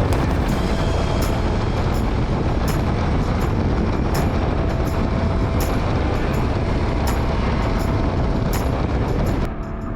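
Motorcycle running at road speed, with engine and wind noise and faint regular ticks about every second and a half, dropping in level near the end.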